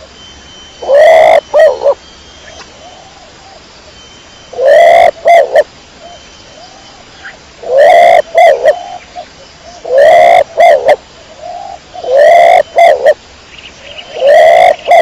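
Domestic pigeon calling loudly six times, about every two and a half to three seconds. Each call is a longer note followed by two or three short ones, with softer calls in between.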